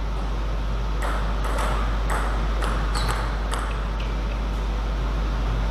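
Table tennis rally: the ball clicking off bats and the table about twice a second, starting about a second in and stopping after about four and a half seconds. A steady low hum runs underneath.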